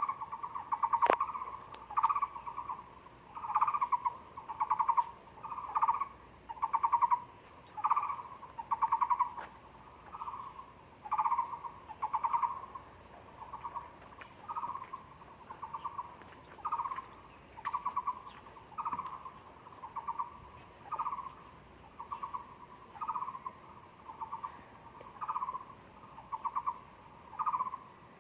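Taiwan barbet calling: a long, even series of short, rapidly pulsed trills, about one phrase a second.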